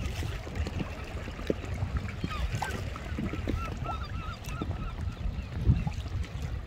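A run of short, quick bird calls about two to four seconds in, over a steady low rumble of wind and water around the kayak.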